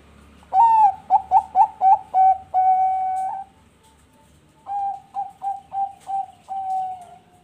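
Zebra dove (perkutut bangkok) singing two phrases, each a quick run of short coos ending in a long drawn-out note. The second phrase, about four seconds in, is quieter than the first.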